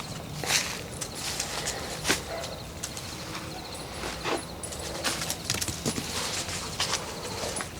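Footsteps of a person walking on the forest floor, irregular crunching steps about one a second over a steady hiss.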